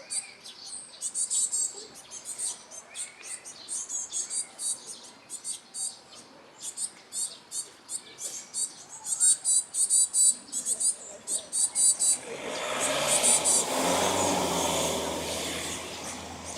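Small wild birds chirping in quick, high-pitched, irregular clusters. About twelve seconds in, a broad rushing noise with a low hum swells up, covers the chirps and slowly fades.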